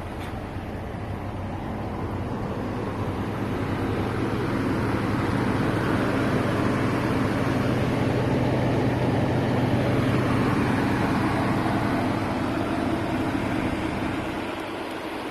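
A motor running with a steady hum, growing louder over the first few seconds and easing off near the end.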